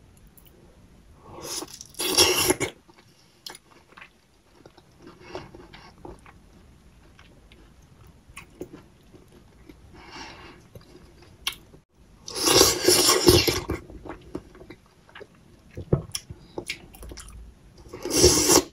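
Close-up wet biting and chewing of soft ripe papaya. Three louder bursts of biting and mouth noise, about two seconds in, around the middle, and near the end, with softer chewing clicks between.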